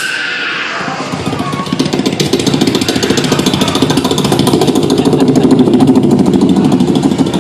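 Human vocal imitation of a helicopter: a rapid, even chopping pulse that fades in and grows steadily louder, like a helicopter approaching.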